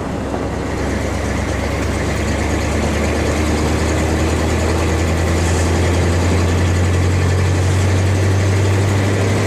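Mid-1970s Chevrolet farm truck's engine pulling the truck in gear after a double-clutched shift, a steady low drone heard from inside the cab that gets louder over the first few seconds and then holds.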